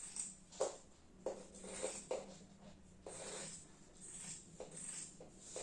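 Scissors cutting through fabric folded into four layers: a series of irregular scratchy snips and slides of the blades, with a faint steady hum underneath.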